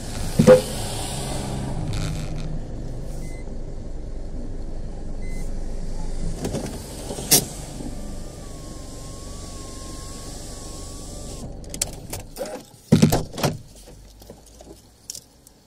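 Car engine idling, heard from inside the car, with a few sharp clicks. The engine cuts off about twelve seconds in, followed by a quick cluster of clicks and knocks.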